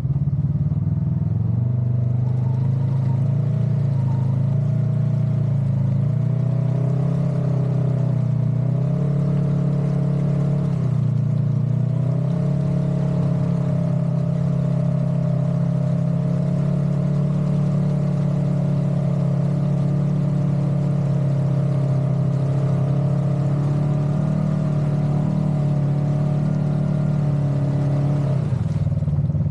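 Side-by-side UTV engine running at high, held revs, its pitch stepping up and down every few seconds. It drops away near the end.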